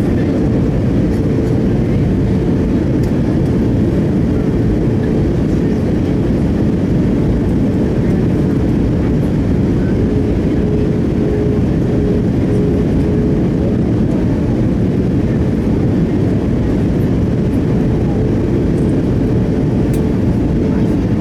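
Steady cabin noise of an Airbus A319 airliner in flight: an even, deep rumble of engines and airflow with a faint steady hum.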